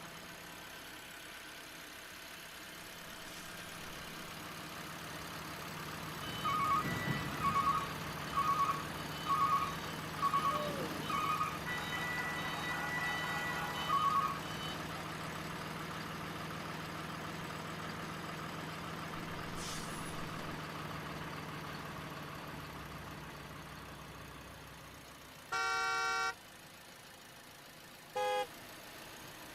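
Remote-control vehicle's electronic engine sound running at a steady low hum, with a string of short horn toots about a second apart and a longer horn blast near the end.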